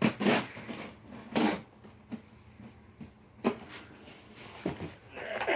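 Parcel packaging being handled and opened by hand: a handful of short rustling and scraping noises, ending near the end in a brief rising squeaky noise.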